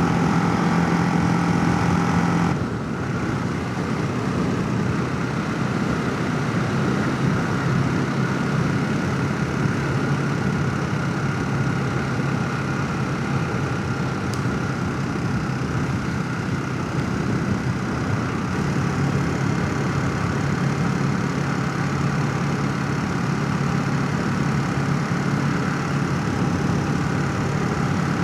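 Motorcycle engine running while riding, with wind rushing past a helmet-mounted microphone. The engine note drops suddenly about two and a half seconds in, then holds steady.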